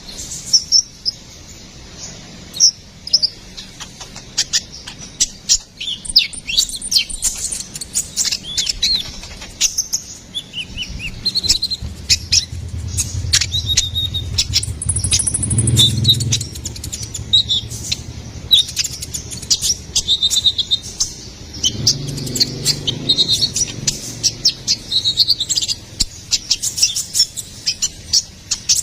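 Sunbird (konin kolibri ninja) song: a rapid, unbroken run of high-pitched chirps and short trills, with a low rumble underneath through the middle stretch.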